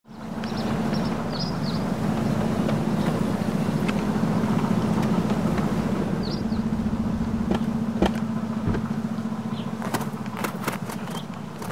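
Land Rover Defender diesel engine idling steadily, with brief bird chirps early on and again midway, and a few sharp knocks in the last few seconds.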